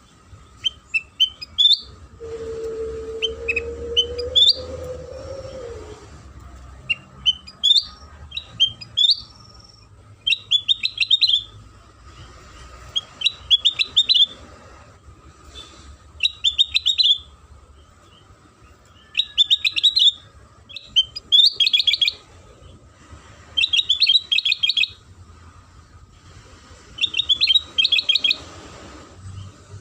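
Kutilang sutra song played as a lure recording: short bursts of high twittering chirps and trills, repeated every two to three seconds.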